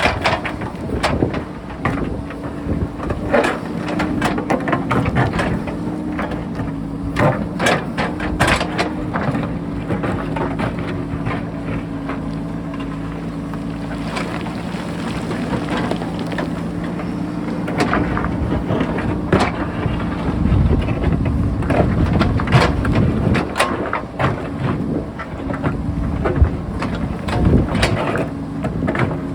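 JCB backhoe loader's diesel engine running steadily under load while its bucket digs into rock, with frequent sharp knocks and clanks of stone against steel. Wind buffets the microphone.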